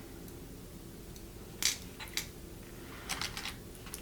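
Small plastic clicks and light rustling from handling false nail tips and their packaging, a few separate brief sounds with a short cluster of them near the end.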